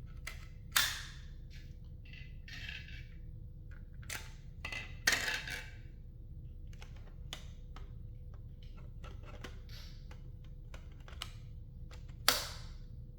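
Plastic parts of a cordless stick vacuum being handled and fitted together: a string of light clicks and rattles, with three sharper knocks about a second in, around five seconds in, and near the end.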